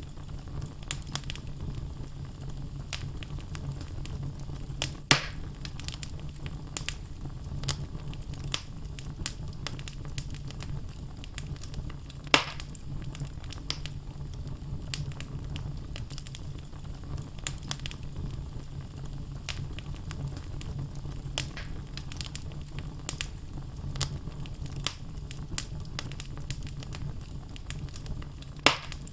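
Wood fire burning in a fireplace: the logs crackle continually over a steady low rumble of the flames, with a few louder sharp pops, about five seconds in, near the middle and near the end.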